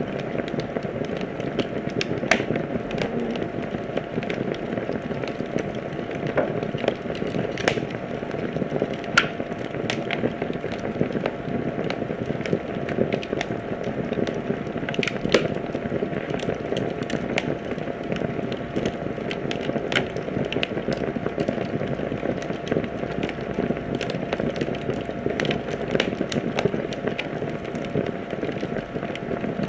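Wood fire in a fireplace crackling: irregular sharp pops and snaps over a steady low rush of burning.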